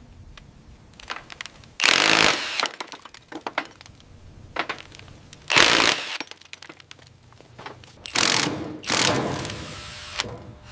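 Short bursts of a power tool working on metal, four loud bursts of about half a second each, with scattered clicks and knocks between them.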